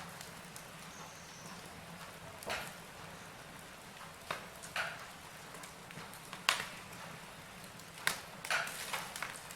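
Wood fire in a fireplace crackling: scattered sharp pops a second or two apart, coming closer together near the end, over a faint steady hiss.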